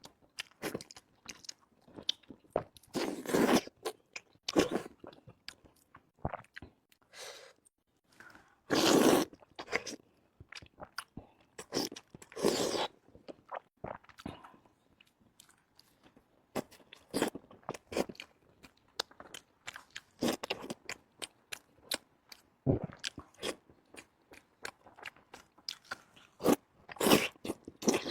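Close-up eating sounds: crunchy bites and chewing, with irregular sharp clicks and a few longer noisy bursts.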